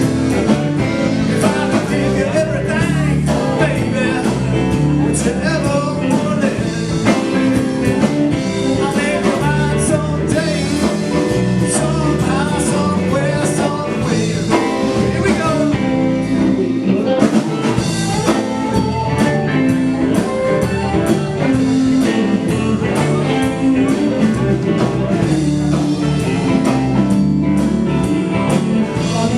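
Live blues band playing, with a singer over guitar, bass and drums.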